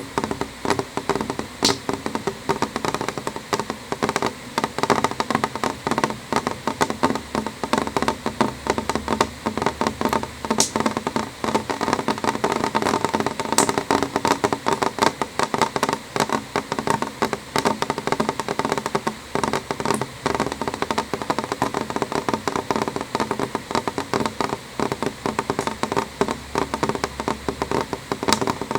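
Rain drops hitting a window pane: a dense, steady stream of small, quick taps on the glass, heard from inside a room.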